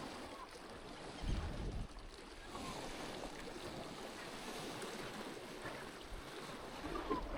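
Lake water lapping against a small boat, with wind buffeting the microphone in a low gust about a second in.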